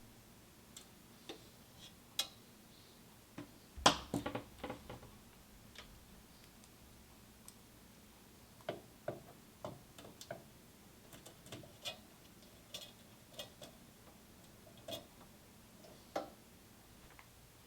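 Scattered light clicks and taps at irregular intervals, with a louder cluster of knocks about four seconds in.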